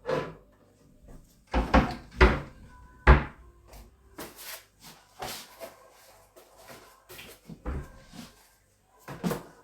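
Kitchen cupboard being opened and its contents handled: a series of wooden knocks and clatters, the sharpest about three seconds in.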